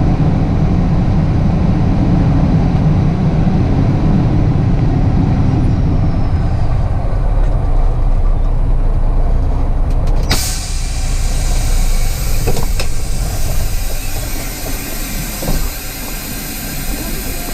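Truck engine running, heard from inside the cab, then a sudden burst of air-brake hiss about ten seconds in, after which the engine runs quieter.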